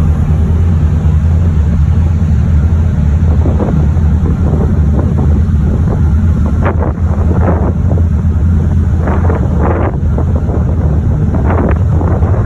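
Wind buffeting the microphone aboard a moving ferry, a steady low rumble, with the rush of sea water swelling up several times.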